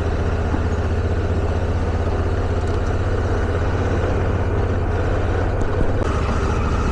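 Motorcycle engine running steadily under way, heard from on the bike as a low drone with a rapid even pulse.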